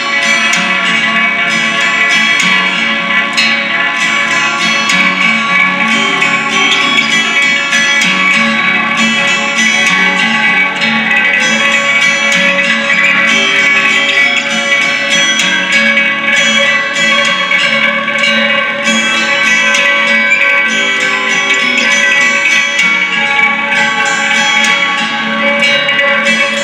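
Live improvised music: a dense, unbroken layer of sustained pitched tones that stays at an even loudness throughout.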